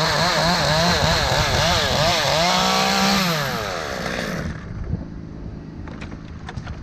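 Chainsaw cutting wood, its engine pitch rising and falling quickly as it works through the cut. It holds high briefly, then winds down to a lower, quieter running about four seconds in. A few sharp clicks follow near the end.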